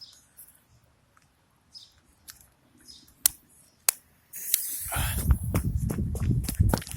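A few sharp clicks, then about four seconds in a lit firework goes off in a loud continuous hissing spray full of rapid crackling pops.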